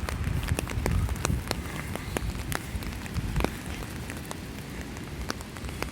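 Rain falling, with scattered drops tapping sharply close by at irregular intervals over a low rumble of wind.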